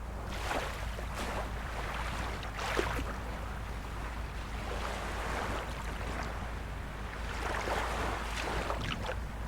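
Small waves of a calm sea lapping and splashing at the shore, a wash every second or two, over a steady low rumble.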